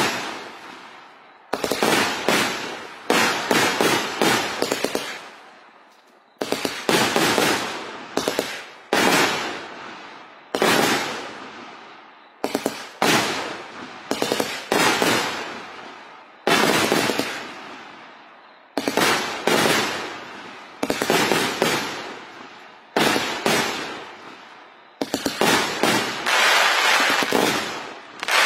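Aerial fireworks fired from the ground in a continuous barrage: loud bangs in quick clusters every second or two, each cluster ringing out and fading. Near the end the bursts come thicker and overlap.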